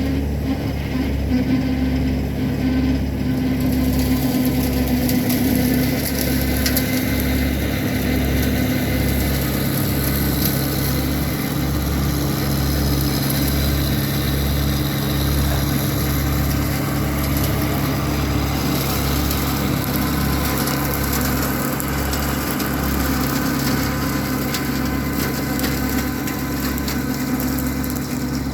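Massey Ferguson 1725 compact tractor's diesel engine running steadily with a regular low throb, driving a 4-foot brush hog.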